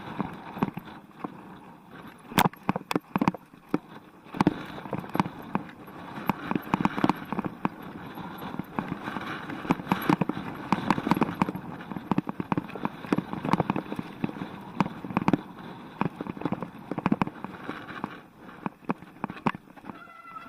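Mountain bike being ridden over rough trail: a steady rush of tyre and wind noise with many irregular sharp knocks and rattles, busier from about four seconds in.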